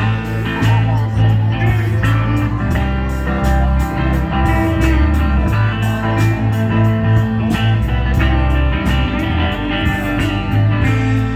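Live band playing a song: electric guitar over a steady beat, with a heavy low end.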